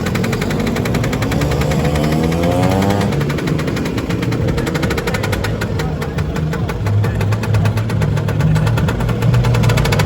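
Two-stroke scooter engines running, with rapid popping exhaust pulses; one revs up, rising in pitch, about a second or two in, as it pulls away.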